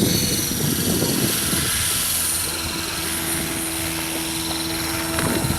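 Electric radio-controlled helicopter flying, its motor giving a steady high whine over the rotor noise; a steady lower hum joins about halfway through. The flight is a battery break-in run.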